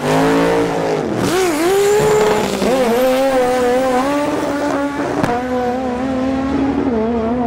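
Drag-racing car engine revving hard. The revs fall at first and dip twice, then hold high and steady, with one sharp crack about five seconds in.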